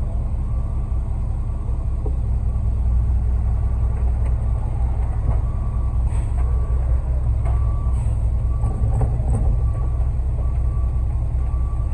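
Concrete mixer truck's engine running steadily under load while the drum turns and discharges concrete.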